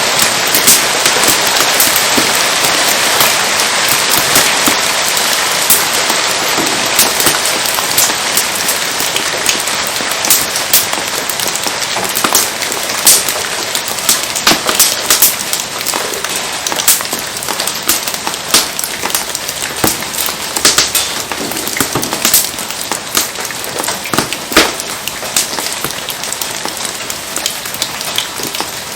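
Steady rain hissing down over a crackling wood fire, with sharp pops scattered throughout.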